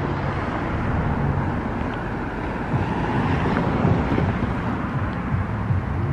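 Steady outdoor rumble of road traffic, with wind buffeting the microphone.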